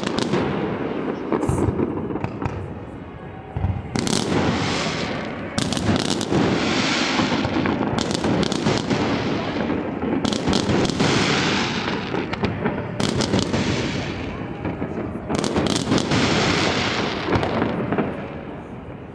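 Aerial fireworks display: sharp bangs every second or two, with crackling and hiss between them, dying down near the end.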